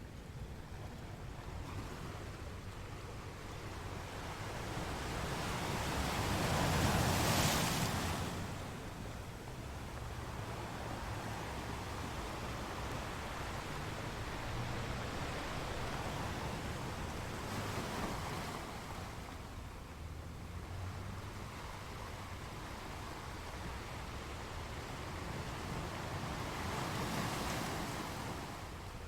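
Ocean waves breaking against rocks over a steady wash of surf. The loudest crash comes about seven seconds in, and smaller swells build around eighteen and twenty-seven seconds in.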